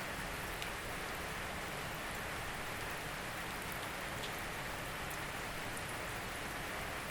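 Steady rain falling, an even hiss with scattered separate drops ticking on a surface.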